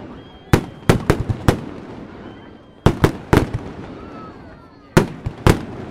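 Aerial firework shells bursting in three groups of sharp bangs, a few bangs in each group, with quieter gaps of about a second and a half between the groups.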